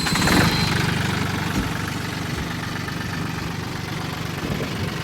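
A heavy diesel engine running, loudest in the first half second and then settling into a steady idle.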